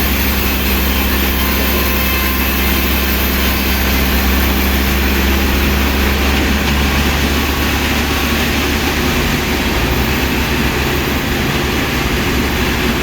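A heavy engine or machine running steadily at an even pitch, with a strong low hum.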